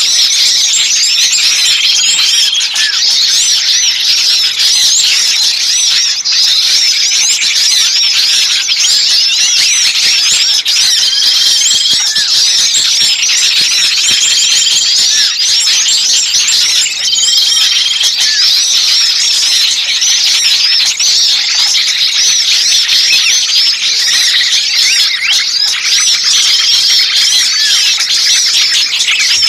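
Dense, unbroken chatter of many small songbirds calling fast and excitedly: a bird-lure (pikat) recording of noisy small birds in distress, as if one were trapped. A short, steady whistled note comes back every few seconds over the chatter.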